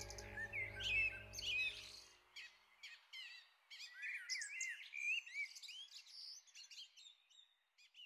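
Faint bird chirping, many short gliding calls, with the last held notes of background music fading out about two seconds in.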